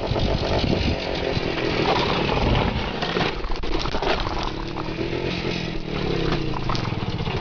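Motorcycle engine running and revving, its pitch rising and falling.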